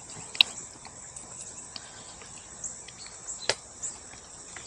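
Steady high-pitched insect chorus. Two sharp clicks stand out, about half a second in and again about three and a half seconds in.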